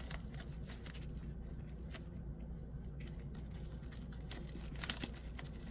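Faint handling noise of small fidget-slider spare parts and their packaging being put away: scattered light clicks and rustles, a few a little sharper about two, three and five seconds in, over a low steady hum.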